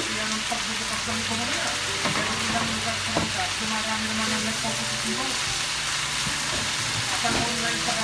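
Vegetables, including shredded cabbage, sizzling in a hot pan as they are stir-fried for pancit, a steady frying hiss. A utensil knocks against the pan about two and three seconds in.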